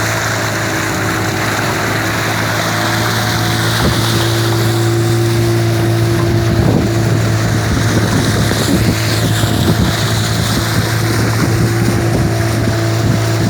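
Motorboat engine running at a steady pitch, with wind on the microphone and rushing water.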